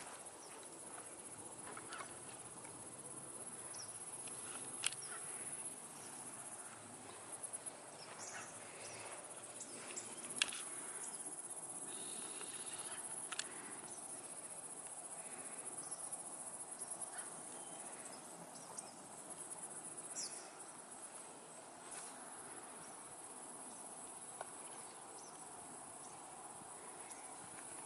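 A steady, high-pitched chorus of insects around a pond, with a few short sharp clicks now and then.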